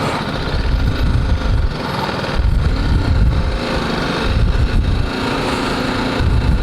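BMW G310GS's single-cylinder engine running while riding, its pitch rising and falling with the throttle, over an irregular low rumble.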